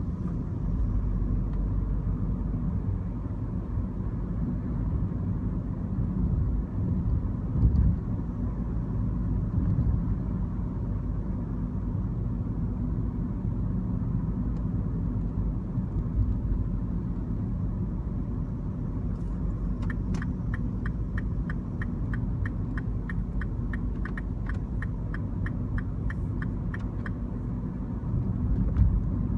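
Mini Cooper with a manual gearbox on the move: a steady engine and road rumble. In the second half, a regular ticking, about three a second, runs for several seconds.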